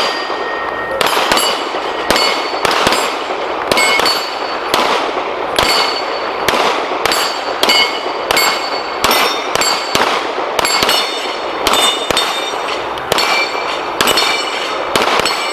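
Rapid handgun fire from two shooters, with the steel targets clanging and ringing on each hit. The shots come about two to three a second, one on top of the other.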